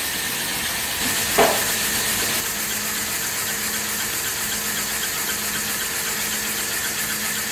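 Miniature steam engine running with a steady hiss of steam, joined by a faint steady hum about a second in. A short squeal falls in pitch about a second and a half in.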